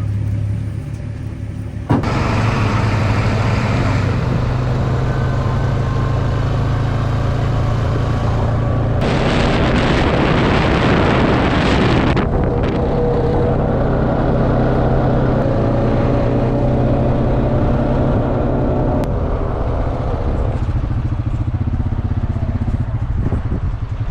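A motor vehicle engine running steadily, getting suddenly louder about two seconds in, with a loud rushing noise lasting about three seconds near the middle.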